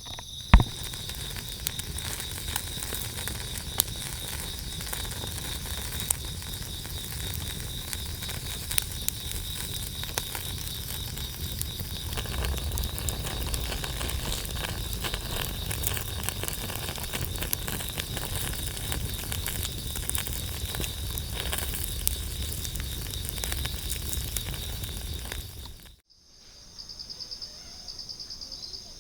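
Wood campfire crackling, with frequent sharp pops and snaps, one loud pop right at the start. A few seconds before the end it cuts off suddenly, leaving crickets chirping in a steady high trill.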